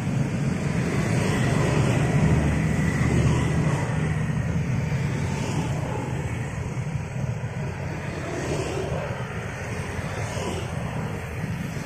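A passenger train rolling past on the tracks below, a steady rumble of wheels on rail that is heaviest in the low end. It is loudest in the first few seconds and then eases a little.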